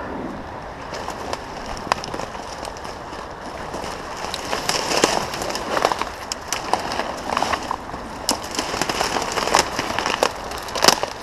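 Dry brambles and twigs crackling and snapping as someone pushes into a thorny bush. The sharp cracks come thicker about four seconds in, with a louder snap near the end.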